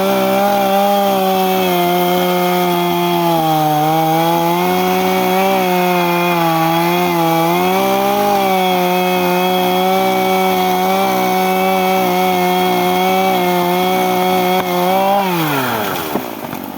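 Two-stroke chainsaw running at high revs. The pitch sags briefly a couple of times, then falls steeply near the end as the revs drop.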